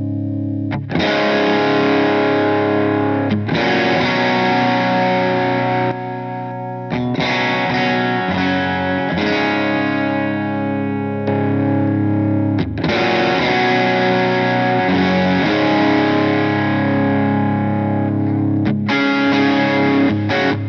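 Electric guitar played through a Donner Dumbal Drive light-gain overdrive pedal: chords strummed and left to ring for several seconds each, with a mild crunchy distortion, and a few quick chord stabs near the end.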